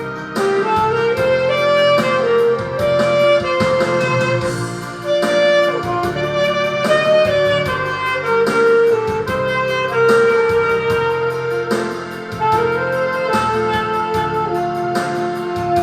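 Alto saxophone, a Yamaha YAS-280 with a Selmer Concept mouthpiece, playing a slow ballad melody in long held notes over a karaoke-machine backing track with steady drums and strings.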